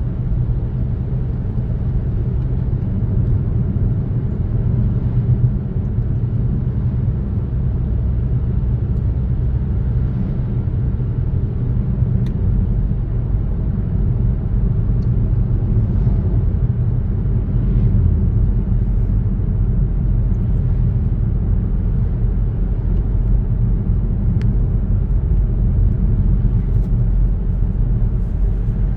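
A car driving along a road: a steady, low rumble of tyre and engine noise with no change in pace.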